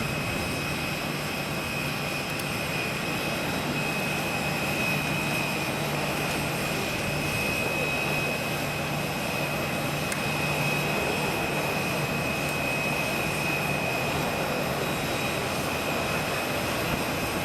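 Jet airliner engines running steadily: an even rush of noise with a thin, steady high whine over it.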